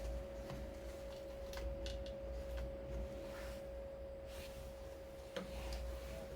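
The original heater/AC blower motor of a Toyota Crown GXS12 running with a steady, even whine, the age-related abnormal noise of a worn blower motor. A low rumble sits underneath, with a few faint clicks, one sharper about five seconds in.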